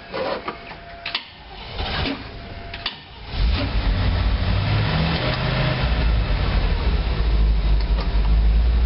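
A few clicks and a steady tone with breaks in it, then about three seconds in the GMC school bus's 366 gas V8 fires and runs steadily. This engine won't stay running without the choke on since its carburettor rebuild.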